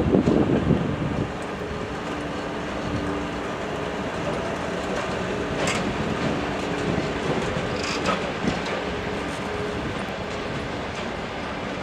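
Rail vehicle running along the track: a steady rumble with a faint steady hum, a louder surge in the first second and a few sharp clicks.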